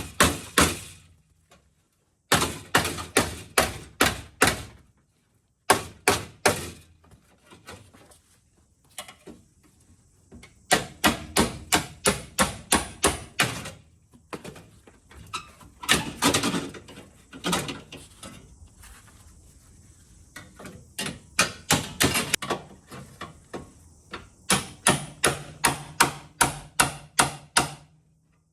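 Repeated hammer blows on car sheet metal, struck in runs of several quick strikes about three a second with short pauses between. This is a panel being knocked free after its spot welds were drilled out.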